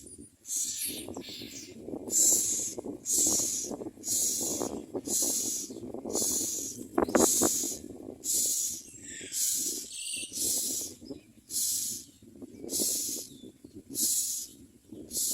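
Common myna nestlings giving raspy, hissing begging calls, one short hiss about every second in a steady rhythm, over lower scratchy rustling in the nest.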